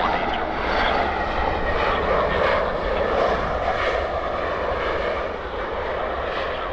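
Air Canada Airbus A320's jet engines heard as it passes on landing: a steady rush of engine noise that eases slightly about five seconds in.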